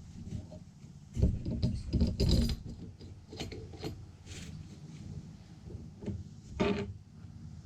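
Metal starter-motor parts being handled and fitted together on the bench: irregular rubbing, scraping and light knocks, loudest in a cluster about a second in and a short burst near the end.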